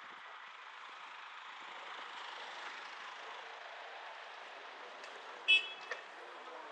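Steady street and wind noise, with one short, loud horn toot about five and a half seconds in.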